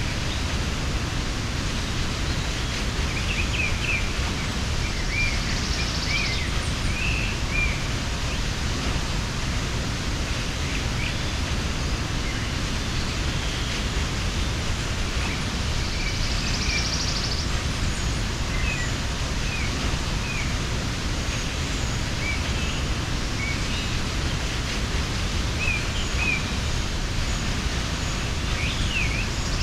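Waterfall pouring steadily, with birds chirping briefly and often over it.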